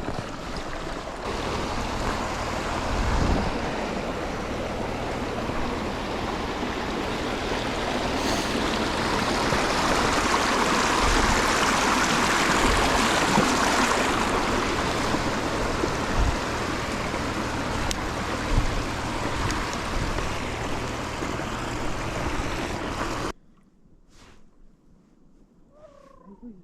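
Wind rushing over the microphone and road noise from a moving truck, over a steady low engine hum. It cuts off suddenly near the end, leaving a much quieter background with a few faint chirps.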